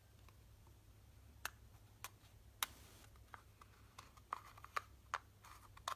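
Scattered faint clicks and taps as a tub of embossing paste and its foil seal are handled, over a low steady hum.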